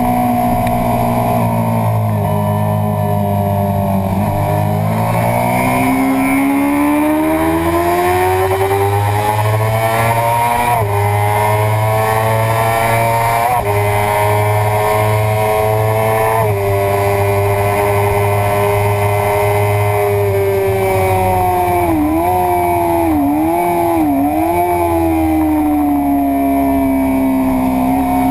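Suzuki sportbike engine running hard at racetrack speed over a wind rush. The engine note falls a few seconds in, then climbs steadily under acceleration for about twelve seconds. It drops and holds, then dips quickly three times about two-thirds of the way through.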